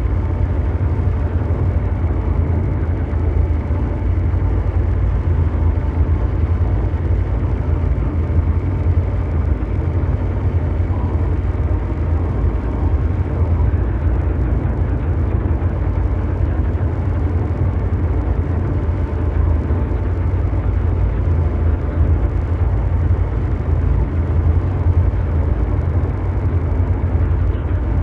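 Ambient mechanical drone noise, engine-like and brown-noise in character: a steady, deep rumble with a dense, even hum above it.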